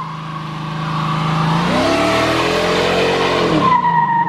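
Dodge Charger R/T's Hemi V8 revving hard in a burnout with the traction control off, the rear tyres spinning with a hissing screech. The revs climb and then drop back in the middle, and a steady high tyre squeal returns near the end.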